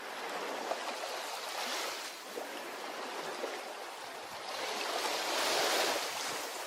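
Ocean waves washing onto a beach: a steady wash of surf that swells to a louder wave breaking near the end and then begins to ebb.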